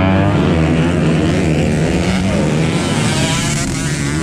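Grasstrack or motocross dirt-bike engines running, rising and falling in pitch as they rev.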